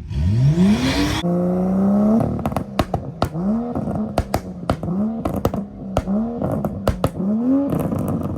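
A car engine revved hard once, held high for about a second, then blipped over and over, roughly once or twice a second. Sharp pops crack out through the blips.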